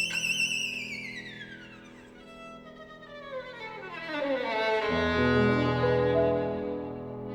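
Violin holding a high note with wide vibrato, then sliding down in one long, slow glissando to its low register about five seconds in, where it settles into louder sustained low notes.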